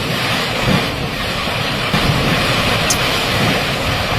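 Loud, steady rushing noise of a torrent of floodwater.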